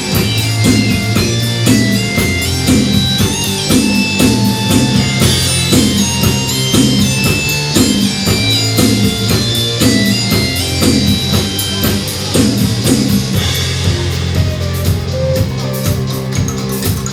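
Live rock band playing an instrumental passage with drum kit, bass guitar and electric guitar, with high sustained melody notes above. Near the end the bass and drums drop back for a couple of seconds before the band comes in again.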